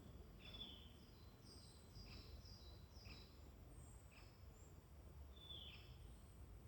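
Faint woodland birdsong: several small birds giving short, high chirps and quick downward-sliding notes, repeated every half second or so, over a steady low background rumble.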